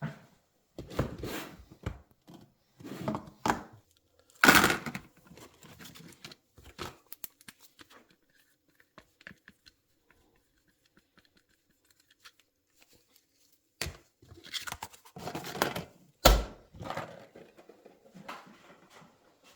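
Irregular knocks, clunks and scrapes of tools and metal parts being handled in a small workshop. The loudest knock is about four and a half seconds in, there is a quiet stretch in the middle, and a heavy thud comes near the end.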